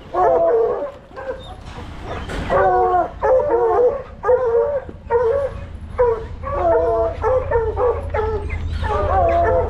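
Coonhounds baying on a raccoon: a rapid string of pitched barks and bawls, one after another with short gaps.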